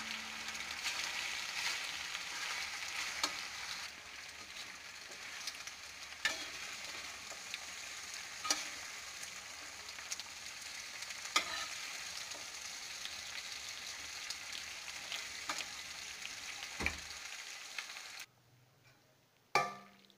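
Macaroni sizzling in a steel pan while it is stirred with a metal spatula, with a sharp knock or scrape of the spatula on the pan every few seconds. The sizzle cuts off suddenly near the end, and one more knock follows.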